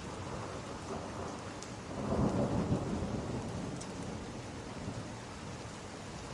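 Steady rain with a roll of thunder that swells about two seconds in and slowly fades away.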